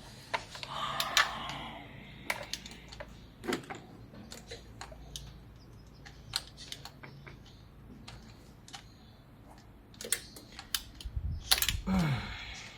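Irregular metallic clicks and taps of a spanner working a stubborn bolt on a car's thermostat housing, with a short scraping rasp about a second in and another near the end.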